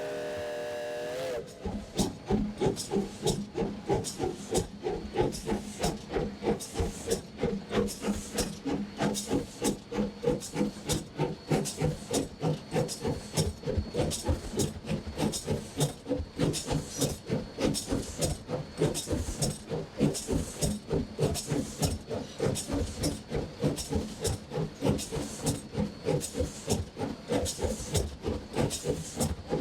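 Steam exhaust of the No. 40 steam locomotive chuffing in a steady rhythm of about two to three beats a second as it runs under steam. A steady held tone stops about a second and a half in, just before the beats begin.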